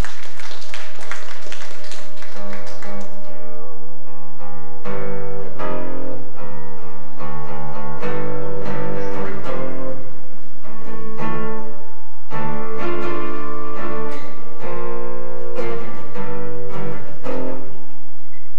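Acoustic guitar playing an instrumental passage of chords and picked notes, in phrases that ring out and pause.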